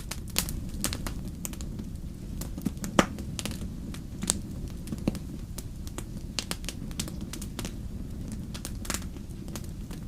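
Wood fire crackling in a fireplace: irregular sharp pops and snaps over a steady low rumble, with the loudest pop about three seconds in.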